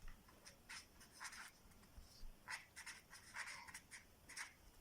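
Faint scratching of handwriting: short strokes at an uneven pace.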